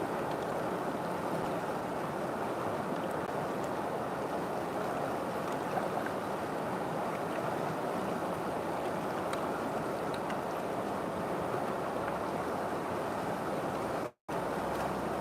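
River water flowing in a steady, even rush, cutting out completely for a moment near the end.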